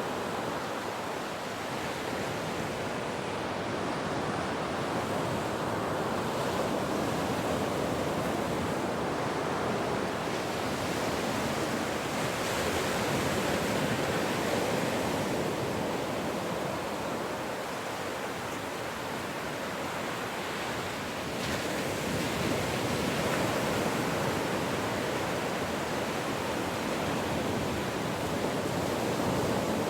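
Ocean surf: a continuous rushing wash of waves that swells and eases gently in loudness every several seconds.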